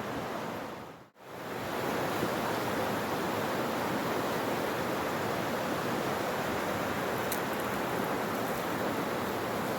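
Steady rushing noise that fades out for a moment about a second in, then comes back and runs on evenly.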